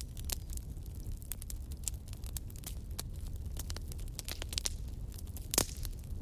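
Wood fire burning in a fireplace, crackling with many small, irregular pops over a low steady rumble, and one louder pop near the end.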